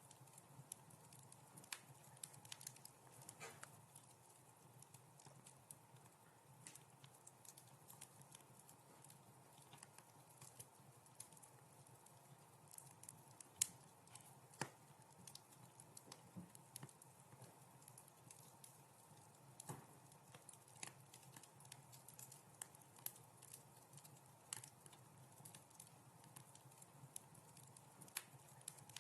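Wood fire crackling softly: irregular small pops and snaps over a faint steady hiss, with one sharper pop about halfway through.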